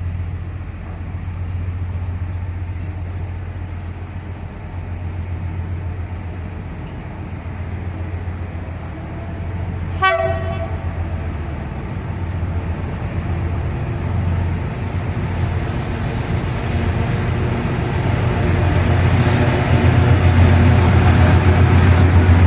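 Railway locomotive running with a steady low rumble that grows louder near the end, and one short horn toot about ten seconds in.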